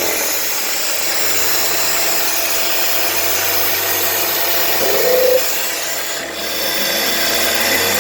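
A steady, noisy mechanical whir, with a short rising whine about five seconds in.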